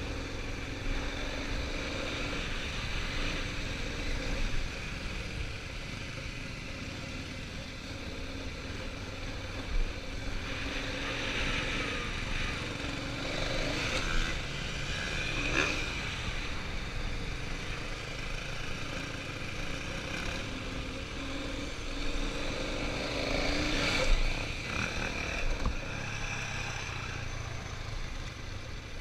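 Dirt bikes running on a motocross track at a distance, engines revving up and down, with louder stretches about a third of the way in and again near the end.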